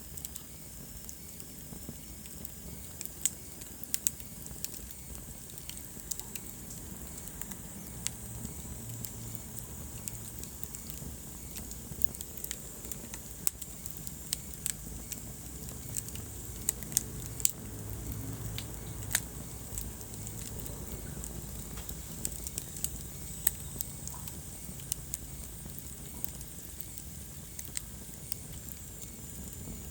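Wood fire burning, with a low steady rumble and irregular crackles and sharp pops.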